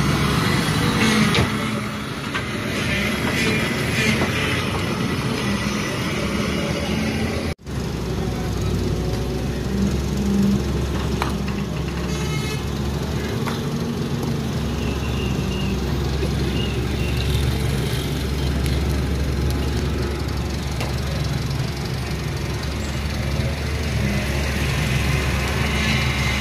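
Excavator's diesel engine running steadily, with one sudden brief break in the sound about seven and a half seconds in.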